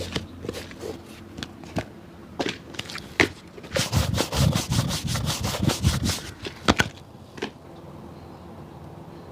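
Cobbler's work on a shoe: scattered taps and knocks, then a quick run of brushing strokes, about eight a second, lasting some two seconds, then a few more knocks.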